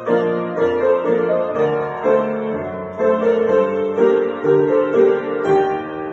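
Solo piano playing a Ukrainian shumka dance piece: a quick melody of struck notes over chords, each note fading after it is struck.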